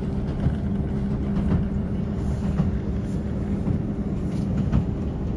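Passenger train running, heard from inside the carriage: a steady rumble with a constant hum and scattered light knocks.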